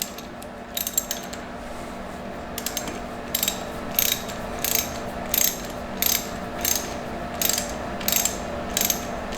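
Socket ratchet wrench clicking in short repeated strokes, about one every 0.7 seconds from a few seconds in, as a 10 mm radiator hose clamp is tightened. A steady low hum lies underneath.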